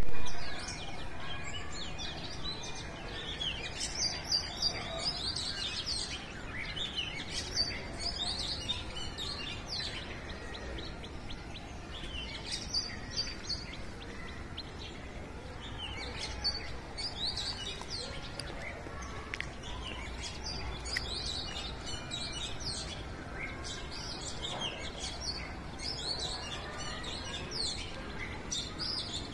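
Songbirds chirping and trilling in repeated bursts, over a low steady background noise.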